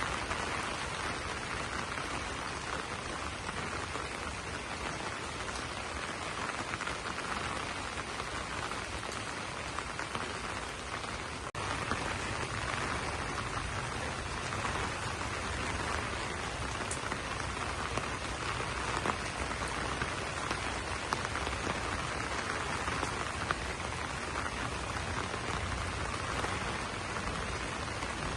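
Steady rain pattering on banana leaves, with individual drops ticking sharply on the leaves; the rain comes on a little heavier about twelve seconds in.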